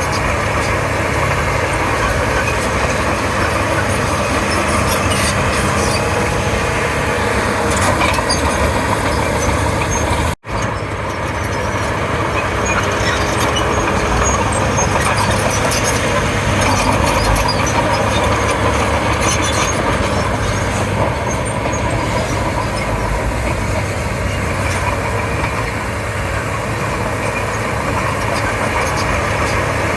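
Komatsu D31P bulldozer's diesel engine running steadily as the machine works, with a brief break in the sound about ten seconds in.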